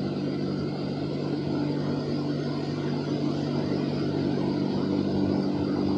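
Automatic car wash machinery running, heard from inside the car: a steady motor hum under an even rushing noise that swells slightly toward the end.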